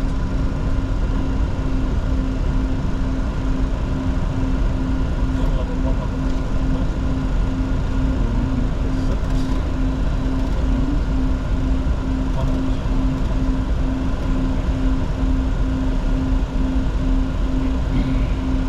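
Steady cockpit noise of a Bombardier Challenger 604 business jet, a continuous engine and airflow rumble, with a low tone pulsing about twice a second throughout.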